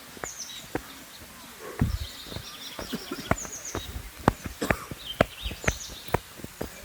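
A run of sharp, irregular clicks and knocks, with a low thump just before 2 s, over short high falling chirps of a bird repeating every couple of seconds.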